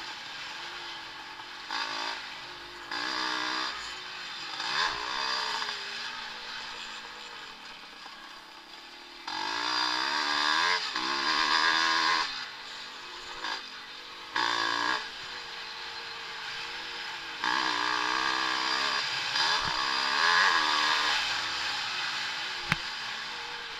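Vintage motocross bikes racing, their engines revving up and down over and over as riders work the throttle and gears. The sound grows loud twice, about ten seconds in and again near the end, and there is one sharp click near the end.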